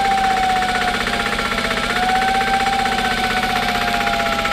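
A siren holding a steady, slowly wavering tone over the fast, even pulsing of a running engine.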